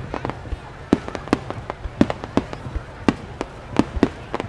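Starmine fireworks display: a rapid, irregular volley of shell bursts, several sharp bangs a second.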